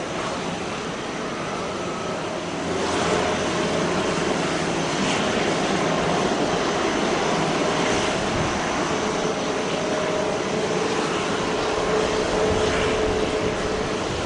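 Jet airliner engines running, a steady rush with a low hum that grows louder about three seconds in.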